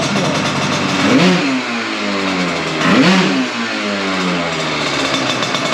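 Tuned two-stroke scooter engine (94cc Big Evolution kit, Big Evolution exhaust) passing at speed twice, about two seconds apart. Each pass rises to a loud peak, then the engine pitch drops as it goes by.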